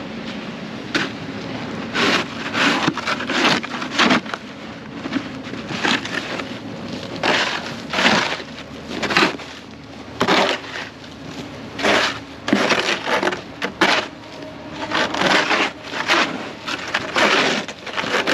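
Snow shovel chipping and scraping through a thick sheet of ice on pavement, in irregular hard strokes roughly one a second, the ice cracking and breaking up.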